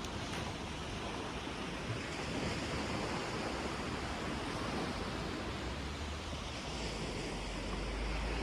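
Sea surf washing on the beach as a steady rush, with wind buffeting the microphone as a low rumble that grows heavier about six seconds in.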